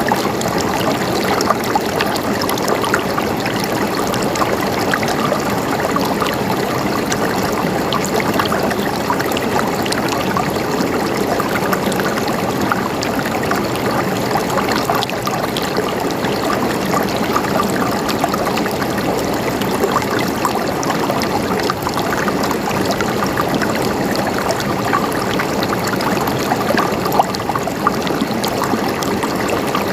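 Running water flowing steadily, a continuous even rush flecked with small splashes and drips.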